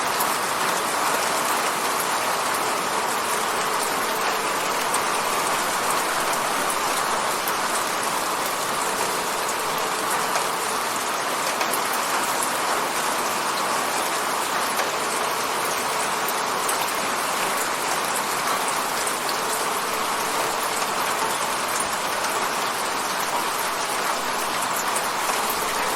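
Steady rain pattering on a window, an even hiss of drops with fine scattered ticks.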